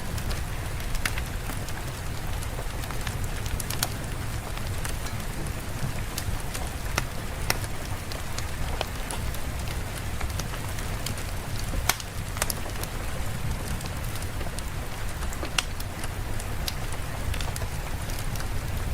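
Steady rain ambience with a low rumble underneath and scattered sharp crackles and ticks throughout.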